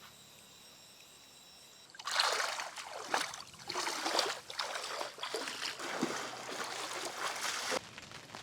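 Faint high insect-like tones at first; about two seconds in, loud water splashing and trickling sets in suddenly, coming in uneven surges, and cuts off abruptly near the end.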